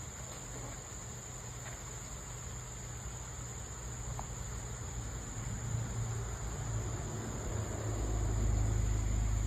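Steady, high-pitched chorus of crickets or other insects chirring. A low rumble builds over the second half and is loudest near the end.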